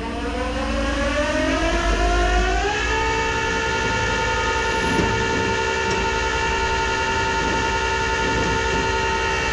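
Tow truck engine revving up, with a hydraulic pump whine that rises in pitch over about three seconds and then holds one steady high pitch, as when the hydraulics are run to work the bed or winch.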